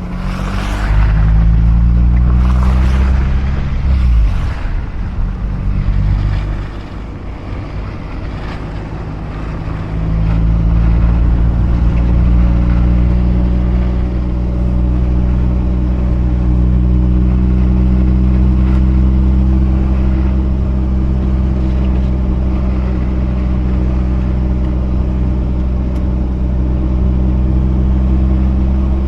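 Mazda RX-8's two-rotor rotary engine running on the move. The engine note drops about four seconds in, stays quieter for a few seconds, then pulls again from about ten seconds in at a steady, even pitch; three short hissing bursts come in the first few seconds.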